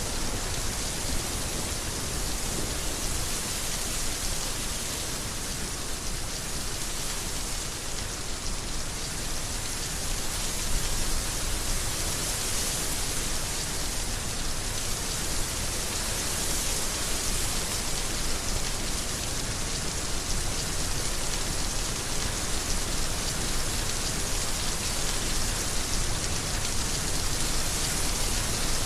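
Heavy rain falling steadily, a dense even hiss of drops with slight swells in loudness.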